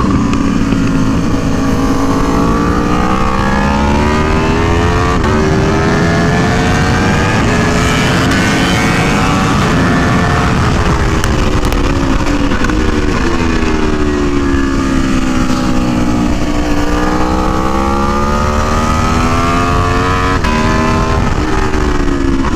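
Aprilia Tuono V4 1100 Factory's V4 engine heard onboard at speed, with wind noise: revs climb hard through the gears with short breaks at the shifts, fall away for several seconds about midway as the bike slows, then climb again through another shift near the end.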